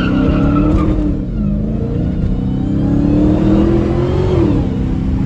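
Dodge Challenger Hellcat's supercharged 6.2-litre V8 under hard acceleration. Its pitch drops about a second in, climbs steadily for a few seconds, then falls back after about four seconds, like gear changes or easing off.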